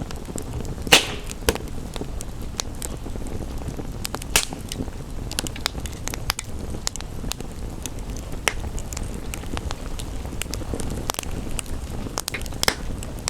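Wood fire crackling, with irregular sharp pops; the loudest snaps about a second in, again a few seconds later and near the end. A steady low rushing noise runs beneath.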